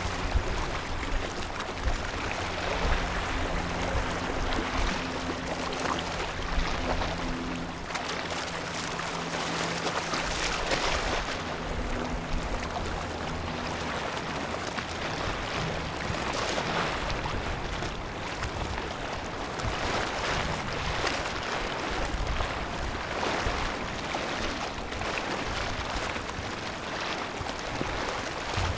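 Rushing wind and water noise by the harbour, surging and easing, with a faint low engine drone from a vessel under it for about the first half.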